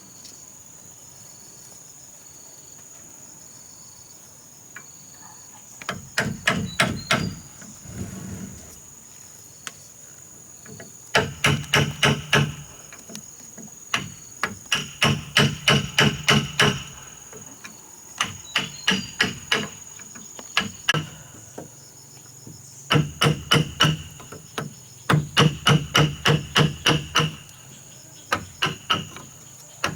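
A hammer driving nails, in quick runs of strikes about five a second, each run lasting a couple of seconds with short pauses between. A steady high insect drone runs underneath.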